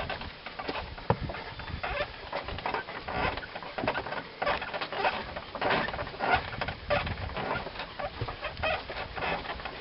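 Irregular creaks and knocks of a canoe carried on the shoulders, mixed with footsteps on a forest trail, several a second.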